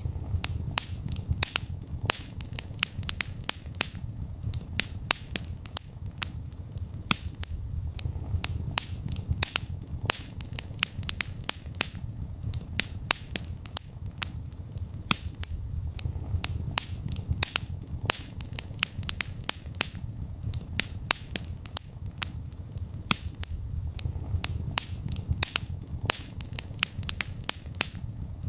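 Wood fire in a fireplace crackling, with many sharp irregular pops and snaps several times a second over a steady low rumble of the flames.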